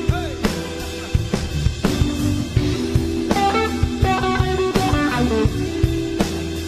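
Blues-rock band playing an instrumental passage: an electric guitar lead line over bass and drums, with a run of guitar notes from about halfway through.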